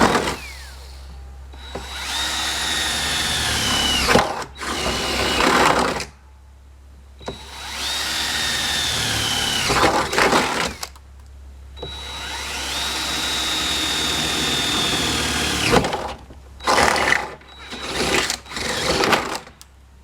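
High-speed power cutting tool whining in repeated bursts of a few seconds each, cutting through the truck's body sheet metal. Its pitch sags a little toward the end of each long burst, and a run of shorter bursts follows near the end.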